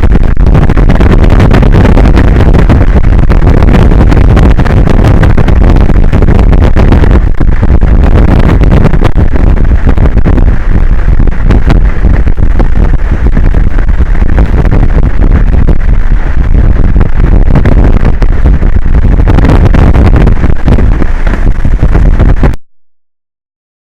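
Loud, steady wind noise rushing on an exposed outdoor microphone above the open ocean. The rush is strongest in the low end, then cuts off suddenly about a second before the end.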